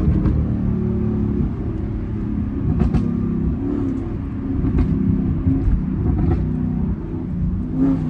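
Chevrolet Camaro 2SS 6.2-litre V8 running through a newly fitted aftermarket exhaust while driving, a deep exhaust note whose pitch rises and falls with the throttle, with a few short sharp clicks or pops along the way.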